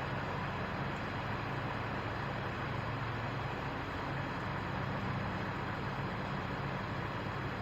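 A truck left running at idle: a steady engine drone with a low hum that slowly swells and fades.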